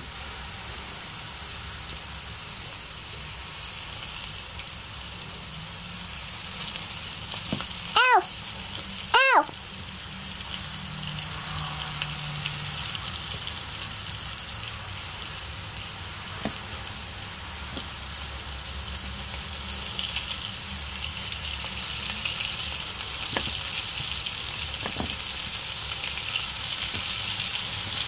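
Floured chicken pieces frying in hot oil in a frying pan: a steady sizzle that slowly grows louder as more pieces go in. About eight seconds in, two short high-pitched yelps from a person, about a second apart.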